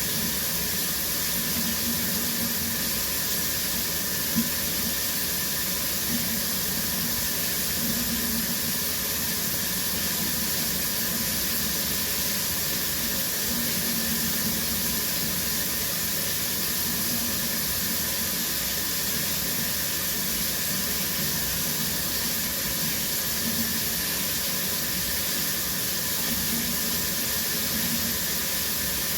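Shower running steadily, water spraying and splashing in an even hiss, with one brief tick about four seconds in.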